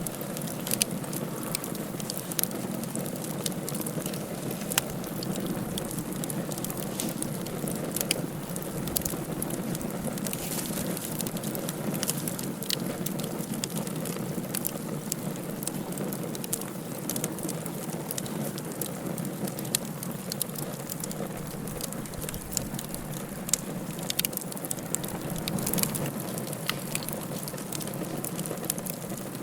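Wood fire in a fireplace crackling, with irregular sharp pops over a steady rushing hiss.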